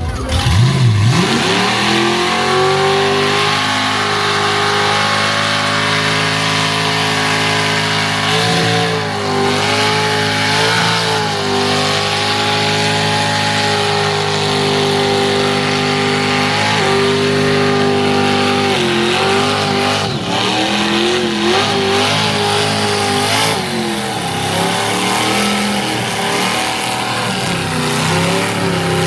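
A car's engine held at high revs during a burnout: the note climbs over the first couple of seconds, then holds steady and loud with a few brief dips, over a steady hiss.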